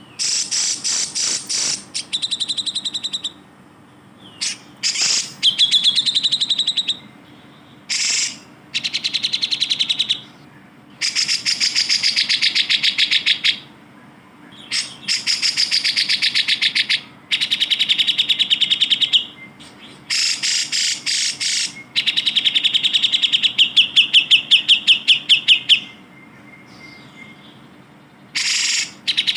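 Cucak jenggot (grey-cheeked bulbul) singing: fast chattering runs of repeated notes, each run one to three seconds long, with short pauses between them.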